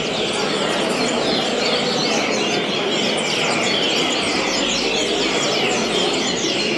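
Double-collared seedeater (coleiro) singing its 'vassourada' song: quick descending whistled notes repeated without pause.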